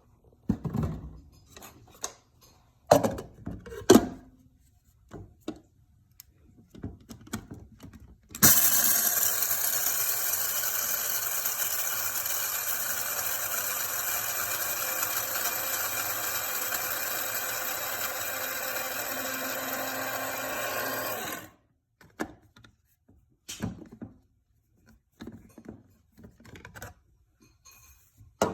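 Electric blade coffee grinder running for about thirteen seconds, grinding dry prescription pet food; it starts about eight seconds in with a steady whine and stops suddenly. Knocks and clatter of handling before and after it, the sharpest a few seconds in.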